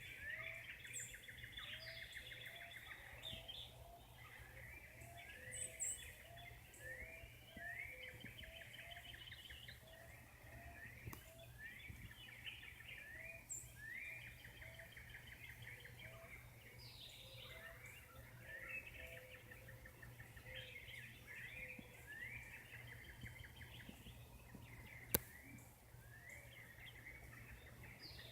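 Several birds singing in a dawn chorus: a constant run of rising chirps, with a lower repeated note beneath them. A faint steady low hum lies underneath, and one sharp click comes near the end.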